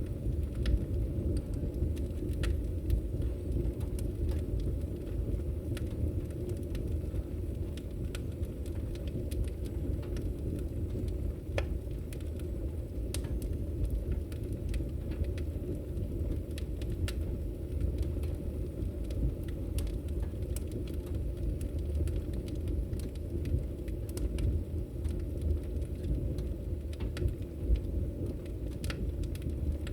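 Logs burning in a fireplace: a steady low rumble of the flames with scattered small crackles and pops.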